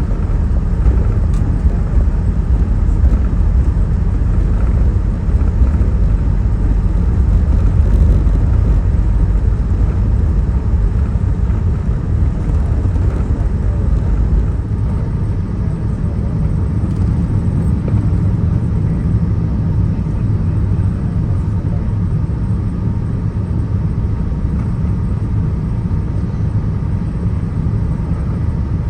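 Airbus A380 cabin noise heard from inside the aircraft: a loud, steady, deep rumble of engines and airframe. It eases a little about halfway through and then holds steady.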